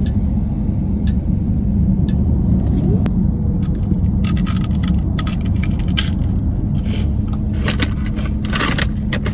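Crispy seaweed snack being bitten and chewed, a run of crunches starting about four seconds in, over the steady drone of road and engine noise inside a moving car's cabin.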